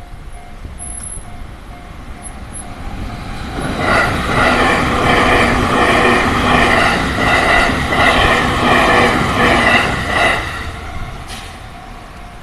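Japanese level-crossing warning bell dinging about twice a second, then an electric train on the JR Chuo Line passes over the crossing for about six seconds, a loud rush with a rhythmic clatter of wheels over the rail joints that mostly covers the bell. The bell rings on after the train has passed.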